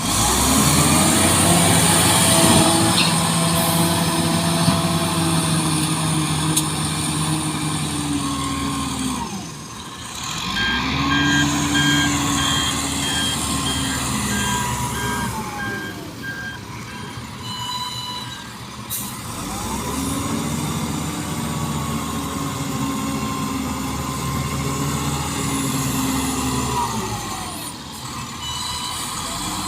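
Heavy diesel engine of earth-moving machinery at a dump-truck loading, revving up, holding and dropping back three times in long cycles. A run of reversing-alarm beeps sounds for several seconds in the middle.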